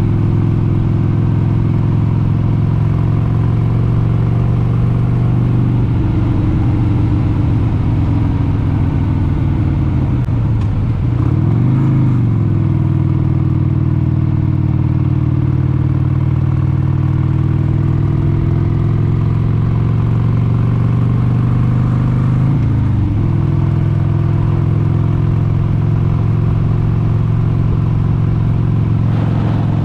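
1996 Harley-Davidson XLH883 Sportster's air-cooled V-twin engine running under way at cruising speed. Its pitch dips and climbs back about a third of the way in, and again about three quarters of the way through.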